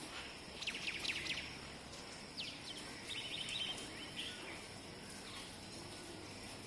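Birds chirping in short high notes that fall in pitch, in small clusters about a second in and again around three seconds in, over steady outdoor background noise.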